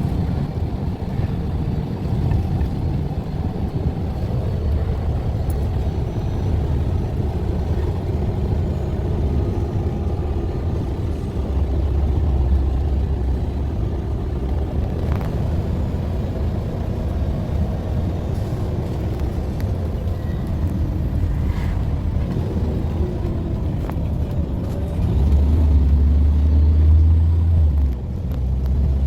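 Low engine and road rumble of a moving bus, heard from inside. It runs steadily and swells louder twice, with a brief drop near the end.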